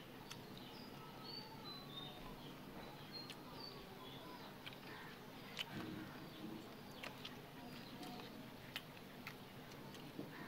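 Birds chirping in short calls in the background, with a few sharp light clicks and knocks in the second half, the loudest about halfway through.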